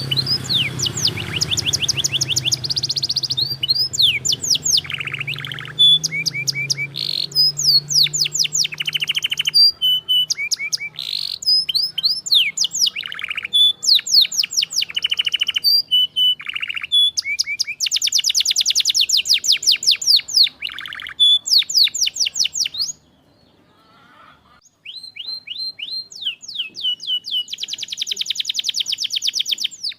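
Domestic canary singing a long, loud song of fast trills and rapidly repeated notes, one rolling phrase after another, with a pause of about two seconds about three-quarters of the way through.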